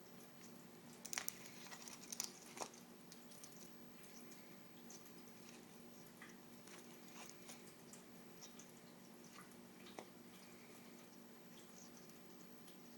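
Faint clicks and taps of an eclectus parrot's beak picking at an eggshell and egg, a few sharper clicks close together between one and three seconds in, then sparse light ticks. A low steady hum sits underneath.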